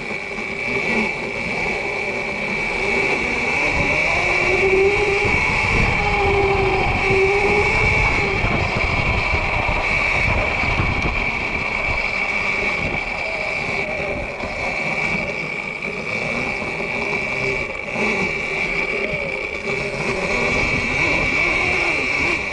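Sur-Ron electric dirt bike on the move: a steady high electric-motor whine, with a lower whine gliding up and down with the throttle a few seconds in, over wind buffeting the microphone.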